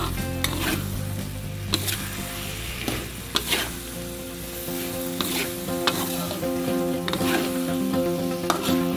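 Chicken gizzards and bell pepper strips sizzling in a frying pan while a metal spatula stirs them, scraping across the pan at irregular intervals about once a second.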